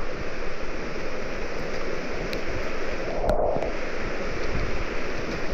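Steady rushing of water, even and unbroken, with one short click about three and a half seconds in.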